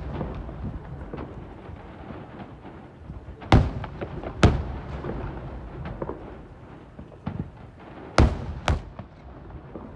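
Aerial fireworks shells bursting: two loud bangs about a second apart some three and a half seconds in, and another pair about half a second apart near the eight-second mark. Smaller pops and a low, echoing rumble fill the gaps between them.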